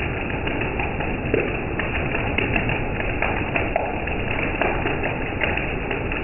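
Heavy rain falling: a steady hiss with irregular taps of drops striking a surface.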